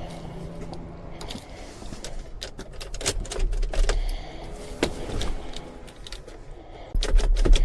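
Scattered light metallic clicks and rattles of keys or small tools being handled. A loud low rumble comes in near the end.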